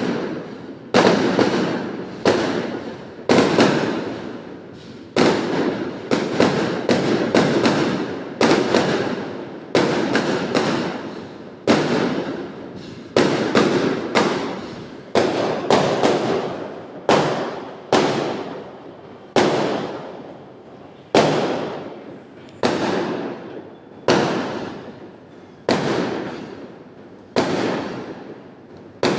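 Firecrackers going off one after another: a long run of sharp bangs, roughly one every second or so, each trailing off over about a second.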